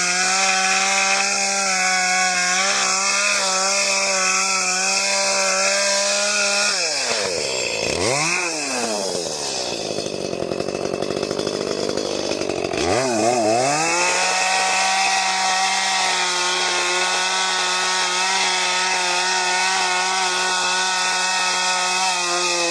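A motor-driven machine running at a steady pitch. About seven seconds in, its pitch drops sharply as it slows almost to a stop. It climbs back up to the same steady speed near the middle and runs on.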